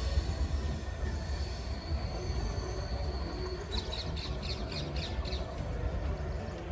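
Distant passenger train running away round a curve: a steady low rumble with a thin, high wheel squeal that fades out about three seconds in. A bird then gives a quick run of high chirps.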